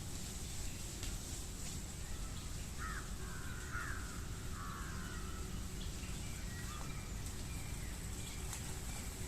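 Birds calling: a short run of harsh calls about three seconds in, over a steady low outdoor rumble.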